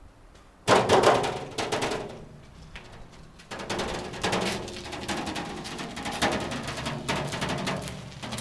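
Rapid, irregular knocking and clattering of hard impacts, starting suddenly about half a second in and going on steadily.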